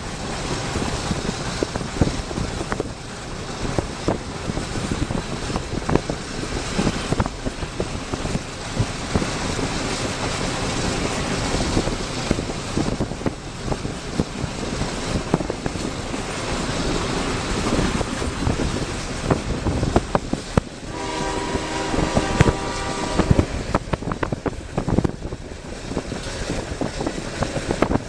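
CSX mixed freight train running at speed: a steady, noisy rumble with many sharp clicks. About 21 seconds in, the locomotive's air horn sounds once, for about two and a half seconds.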